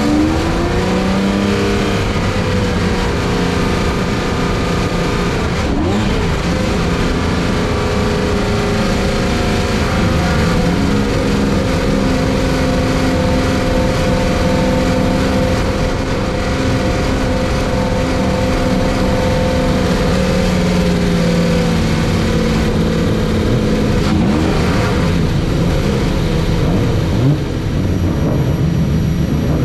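Jaguar XJS V12 race car's engine heard onboard at speed on track: revs climb right at the start, hold high and steady through a long stretch, then drop about twenty seconds in and pick up again near the end.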